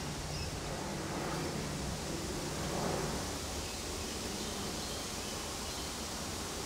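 Steady outdoor background noise, an even hiss with a low rumble beneath and no distinct calls or knocks.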